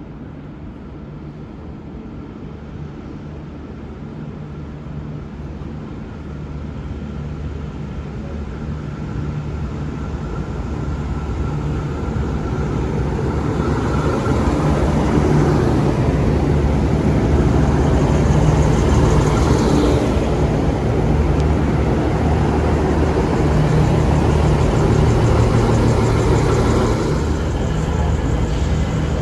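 A train approaching and passing close by, growing steadily louder over about fifteen seconds into a low, steady drone with a hiss on top, then staying loud.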